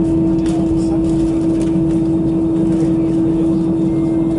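Cabin noise of an Airbus A320 taxiing: a steady engine and air-conditioning hum with one strong, steady droning tone.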